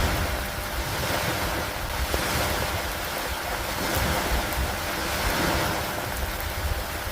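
Steady rain falling, an even hiss that swells and eases every couple of seconds over a low rumble.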